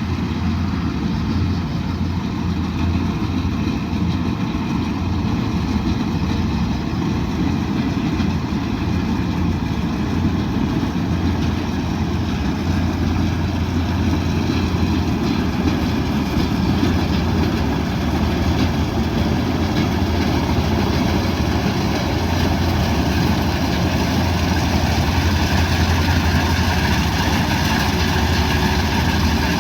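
Kubota DC108X combine harvester running steadily, its diesel engine's low hum under an even mechanical noise.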